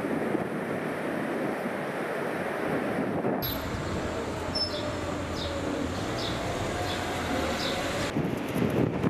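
Strong wind gusting and buffeting the microphone, a steady rushing noise. The sound changes abruptly about three seconds in and again near the end; in between, a few short high chirps are heard over the wind.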